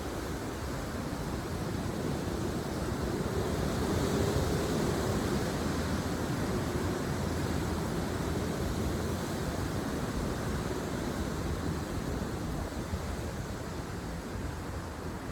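Steady wind blowing across the microphone, swelling a little a few seconds in.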